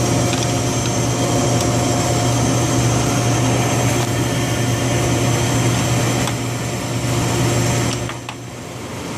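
Steady hum of running machinery, a strong low drone with a fainter higher whine, dipping briefly near the end.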